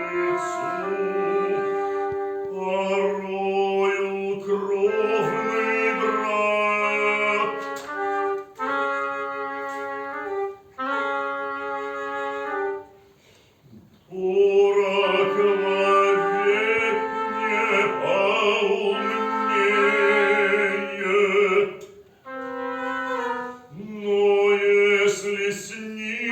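Chamber wind ensemble of oboe, flute and bassoon playing held, overlapping notes in short phrases, breaking off briefly about halfway through before resuming.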